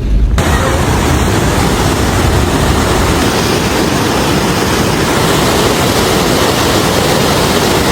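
Steady rushing of a swollen river in flood: fast, high water running as one loud, even noise that starts abruptly and holds level.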